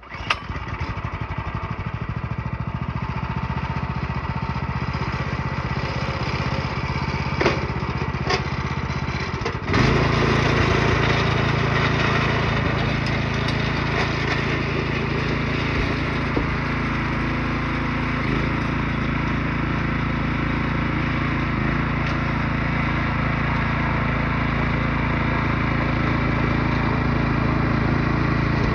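Newly fitted small gasoline engine starting up and running steadily, then throttled up about ten seconds in to a louder, steady run.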